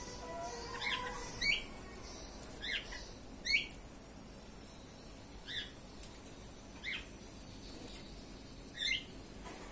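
Small birds chirping: about seven short, separate chirps at irregular intervals.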